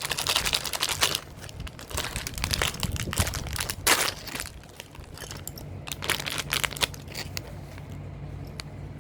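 Packaging crinkling and rustling as it is handled and opened: dense, irregular crackles over the first four seconds, then sparser handling noises.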